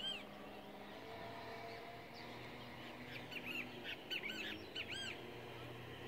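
A bird calling in short arching chirps: a couple at the start, then a quick run of them in the second half, over a faint steady low hum.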